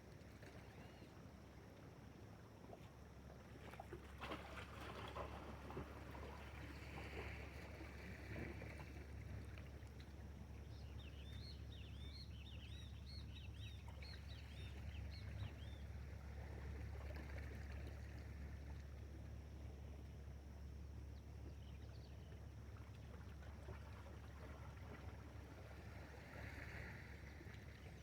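Quiet outdoor ambience on the water from a small fishing boat, with a steady low hum. A quick run of high chirping calls comes about eleven to sixteen seconds in.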